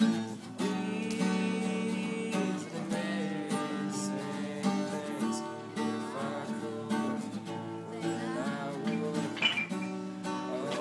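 Acoustic guitar being strummed, a steady run of chords that changes every second or so.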